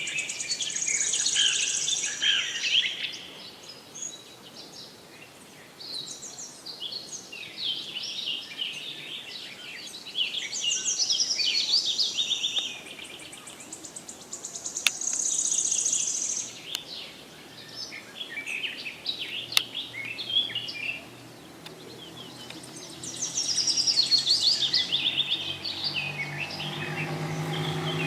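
Small pet birds chirping and twittering in bursts of a few seconds, with quieter gaps between.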